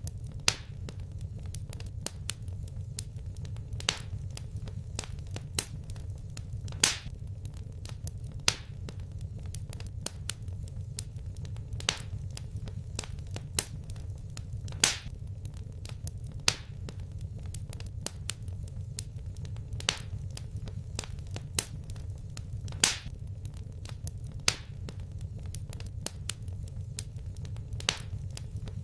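Fireplace fire crackling: sharp single pops every second or two over a steady low rumble.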